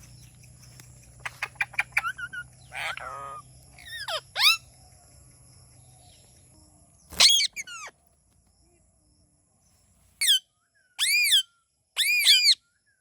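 Indian ringneck parakeet calling: a few clicks and short warbling chirps, one loud call about seven seconds in, then a brief hush and a run of loud, evenly spaced squawks from about ten seconds.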